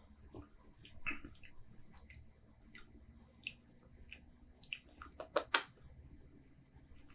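Scattered soft clicks and wet smacks of the mouth tasting beer, lips and tongue working, with a pair of louder clicks about five and a half seconds in.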